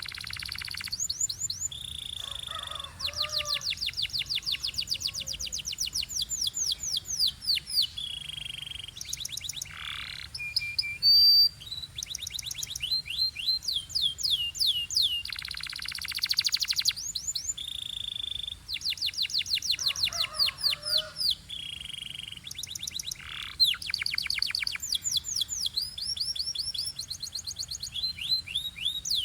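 Canary singing a long song of fast trills, rapid runs of falling notes, broken by short held whistles, without pause.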